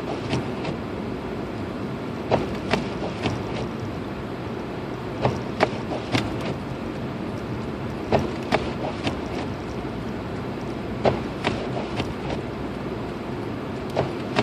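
Inside a 2006 Lexus IS250 AWD driving slowly on a snowy road: steady engine and tyre rumble, with small groups of sharp clicks and knocks about every three seconds.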